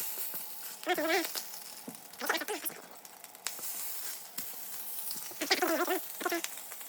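Food frying in a pan on the stove, a steady sizzle that grows denser about halfway through. Short wavering vocal sounds come and go over it, about a second in, after two seconds and near the end.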